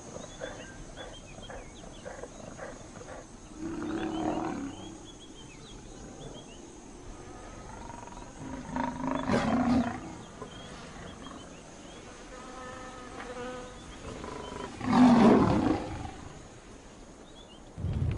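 Lion growling and snarling in three loud, rough bouts about five seconds apart, with quieter calls between them. Faint high chirps sound in the background.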